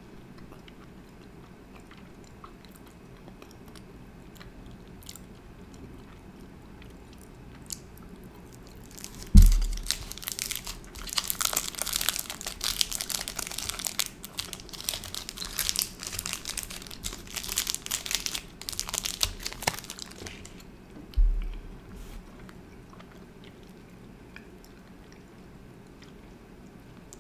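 Close-miked biting and chewing of sour lemon taffy candy: a dense run of crackly mouth sounds lasting about ten seconds, starting with a thump about nine seconds in and ending with another thump about twenty-one seconds in, with quiet before and after.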